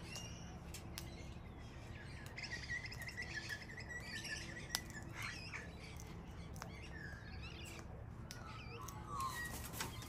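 Wild birds calling from the treetops: a scatter of short chirps and calls, with one longer wavering call from about two to five seconds in.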